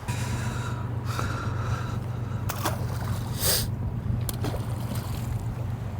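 A boat motor switches on abruptly and runs with a steady low hum. Two or three short rushes of noise, the loudest about three and a half seconds in, sound over it.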